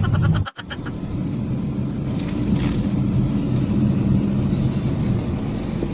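Car running at low speed, heard inside the cabin: a steady low engine and road rumble with a faint hum. The sound cuts out completely for an instant about half a second in.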